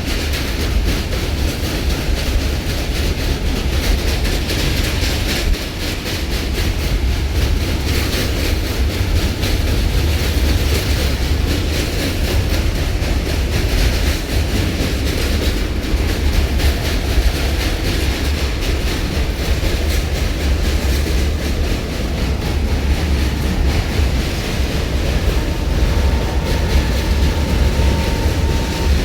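Passenger train running at speed, heard from on board: the steady rumble and rattle of the carriage with the clickety-clack of wheels over rail joints. A faint steady high tone comes in near the end.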